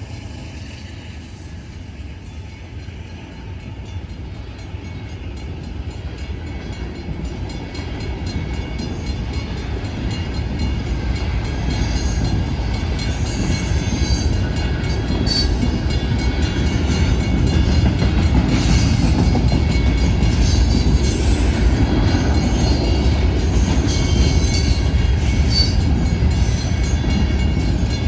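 Norfolk Southern manifest freight train rolling past, a heavy rumble of railcars that grows steadily louder over the first half and then holds, with sharp wheel clicks scattered through it.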